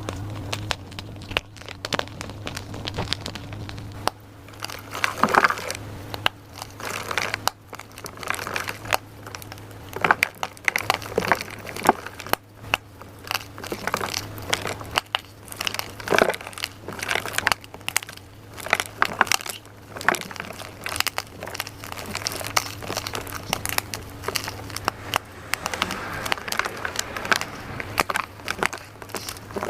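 Crunchy dyed gym chalk being crushed and crumbled, a run of irregular dry crunches and crackles.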